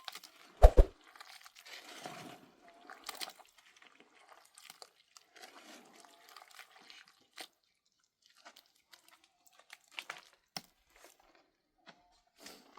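A single thud about a second in, then scattered faint crunching, scraping and clicking noises of something being handled.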